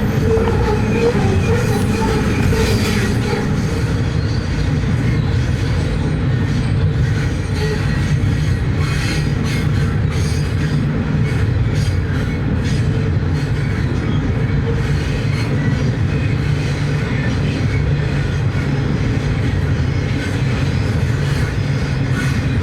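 Loaded coal train passing, a steady heavy rumble of wagon wheels on the rails with frequent clicking over the rail joints.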